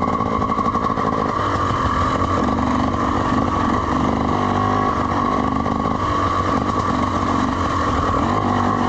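Dirt bike engine running steadily at a modest, fairly even throttle while cruising along a slick, wet trail.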